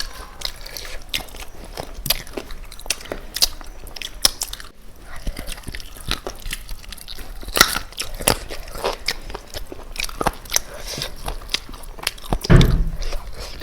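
Close-miked mouth sounds of eating chicken: biting and chewing, heard as many small crunchy, wet clicks in an irregular run, with a louder low thump near the end.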